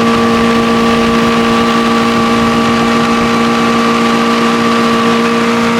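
75 hp Evinrude Starflight two-stroke outboard motor running at a steady speed, holding one even pitch, with water and wind noise underneath.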